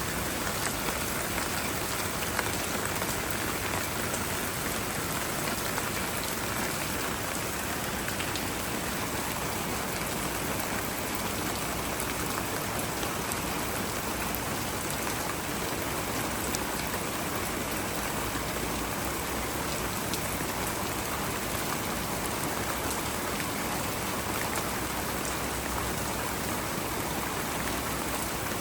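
Steady rain falling, an even hiss with many scattered small drop ticks.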